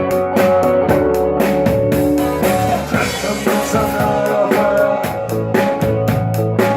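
Rock music played by a band: a drum kit keeps a fast, even beat under sustained guitar chords.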